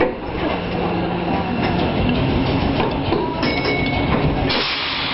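Electric street tram running along its track: a steady low rumble with scattered clattering, and a hiss that rises sharply near the end.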